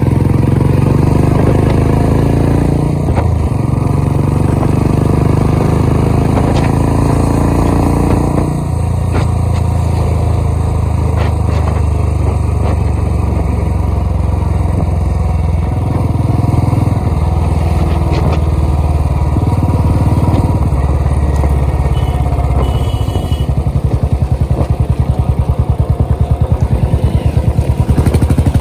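A vehicle engine running, rising in pitch for about the first eight seconds as it speeds up, then holding a steady low drone. Near the end it takes on an even, pulsing beat.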